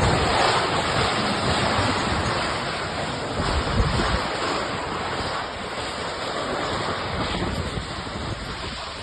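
Strong gusting wind buffeting the microphone, a steady rushing roar with low rumbles as the gusts hit.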